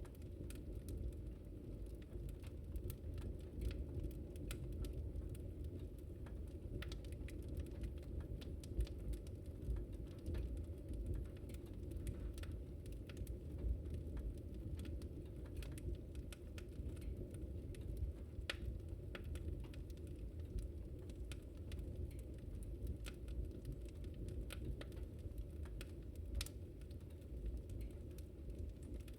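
Wood fire burning with a steady low rumble of flames and frequent irregular sharp crackles and pops.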